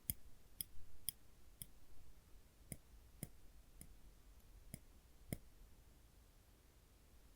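Tweezers being pressed and released, their tips clicking together about nine times in loose groups. The clicking stops a little past halfway.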